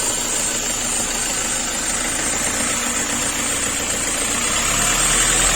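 Ford Ranger T6 engine idling steadily, with a steady high hiss over the running noise.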